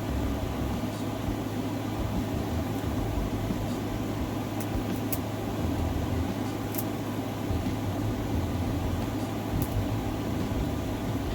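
Steady low background hum, with a few faint, light clicks scattered through it.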